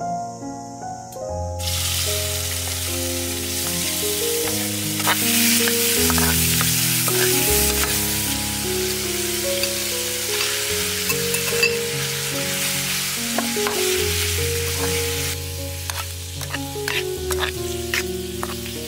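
Shrimp and squid frying in hot oil in a wok, with a dense sizzle that starts about a second in and dies down near the end. A slotted metal ladle stirring gives sharp clicks and scrapes against the pan. Background music plays underneath.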